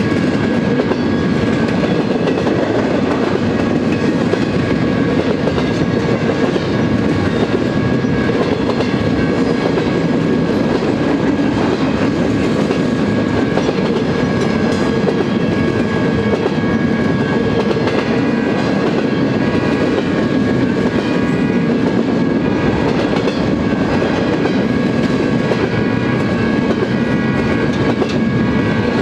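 Double-stack intermodal freight train's well cars rolling steadily past over a grade crossing: a continuous rumble and clatter of steel wheels on rail.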